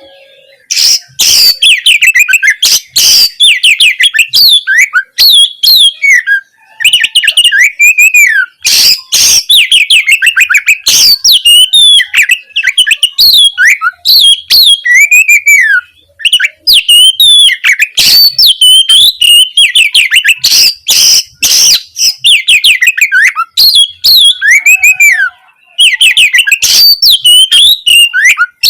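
Oriental magpie-robin singing loudly and almost without pause: a varied song of fast repeated notes and up-and-down whistled phrases, mixed with many harsh rasping notes.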